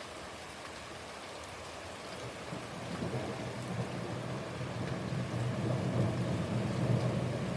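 Heavy rain falling steadily. About two and a half seconds in, a low rumble of thunder rolls in after a lightning flash and grows louder toward the end.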